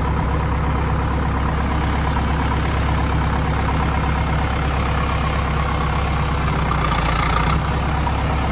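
A vehicle engine idling steadily: a low, even drone with a fast fine rattle, unchanging throughout.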